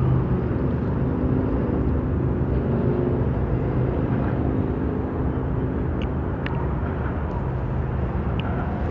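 Steady low engine hum with a few faint ticks about six seconds in.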